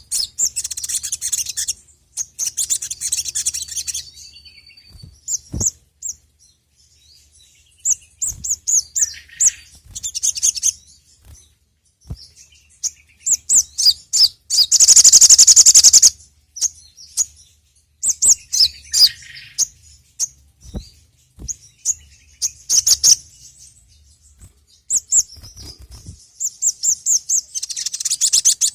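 Sogon (sogok ontong, the little spiderhunter) singing: bursts of rapid, high, repeated chirps with short pauses between them. A dense, fast trill about halfway through is the loudest part.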